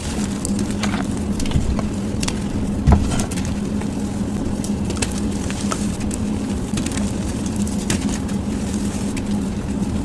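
Gym chalk being crushed and crumbled, sped up to double speed: a dense run of small dry crackles and crunches, with a louder crunch about three seconds in, over a steady low hum.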